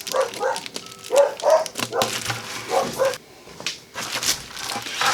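A dog barking: a quick series of short barks over the first three seconds, then a brief lull.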